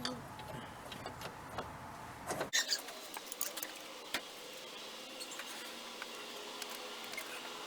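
Scattered light metallic clicks and clinks of hand tools and bolts against the motor-mount bracket. A brief cluster of sharper clicks comes about two and a half seconds in.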